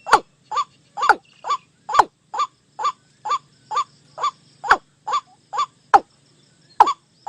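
White-breasted waterhen and watercock calls: a steady run of short, sharp 'kwak' notes, a little over two a second, each dropping in pitch, with a brief pause near the end.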